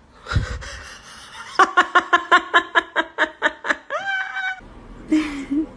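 A person laughing hard in a rapid run of about a dozen bursts, ending in a held rising note.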